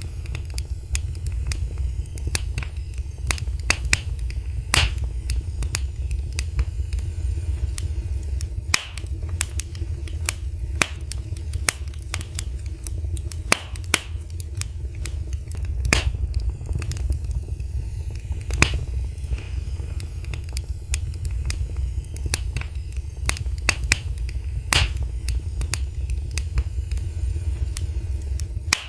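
Wood fire in a fireplace crackling: irregular sharp pops and snaps, several a second, some louder, over a steady low rumble of the flames.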